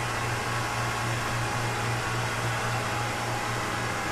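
Steady machinery hum and fan-like rush in a yacht's engine room: a low hum that throbs slightly under an even rush of air, with a faint steady whine.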